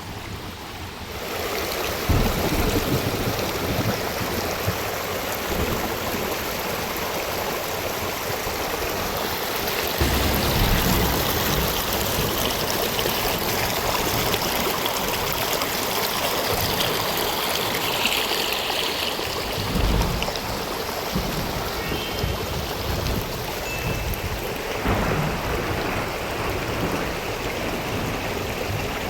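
Heavy rain and rushing floodwater: a steady wash of water noise that swells about a second in, with occasional low rumbles.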